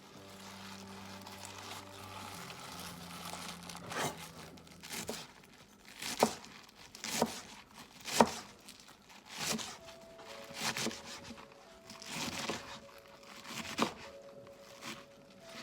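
Sharp, crunchy crackling snaps about once a second from vegetables being cut or broken, over soft background music with long held notes.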